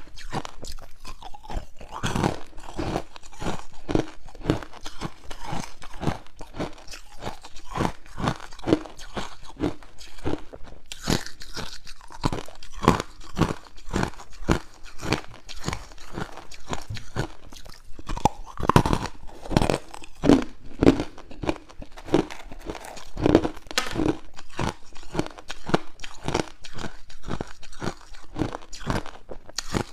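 A person biting and chewing hard ice cubes close to the microphone: a steady run of loud, crisp crunches, about two to three a second.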